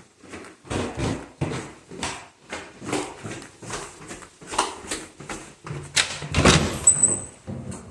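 Footsteps and knocks at about two a second, the loudest cluster near the end, with a brief high squeak.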